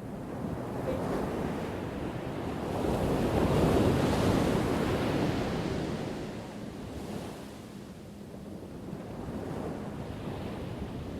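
Ocean waves crashing on a shore: one wave builds to its loudest about four seconds in and washes out, followed by quieter, lapping surf.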